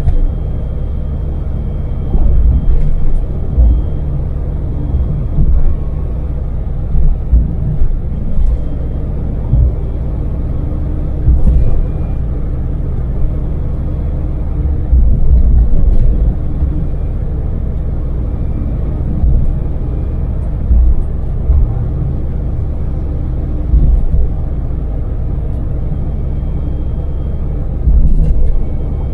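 Daewoo Damas LPG mini van's small three-cylinder engine and road noise heard inside the cab at steady expressway speed: a constant low rumble with a faint steady whine. Short, louder low thumps come at irregular intervals of a second or a few seconds.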